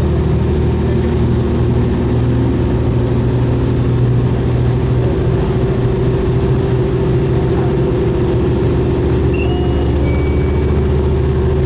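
Diesel railcar running along the line, heard from aboard: a steady, even engine drone, with two brief faint high tones near the end.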